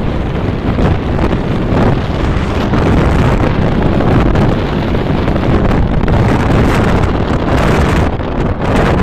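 Wind buffeting the microphone: a loud, steady rumble that rises and falls slightly, likely with the sea underneath.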